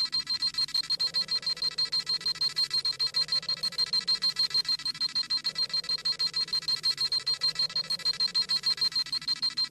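Dragon Ball Z scouter sound effect: rapid, steady electronic beeping with a high-pitched tone, the scouter scanning a power level.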